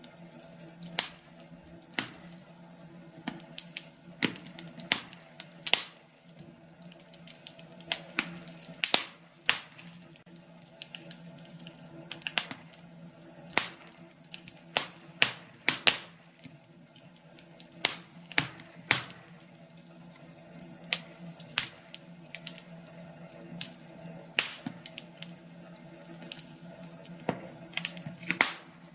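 Wood fire crackling: irregular sharp pops and snaps from burning logs, one or two a second, over a faint steady low hum.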